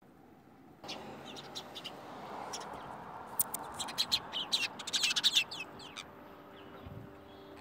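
Small birds chirping and twittering in quick runs of short high notes, busiest a few seconds in. A few steady low tones come in near the end.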